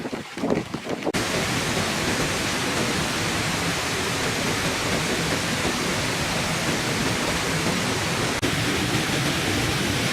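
Steady rush of falling water, cutting in abruptly about a second in after a few brief knocks.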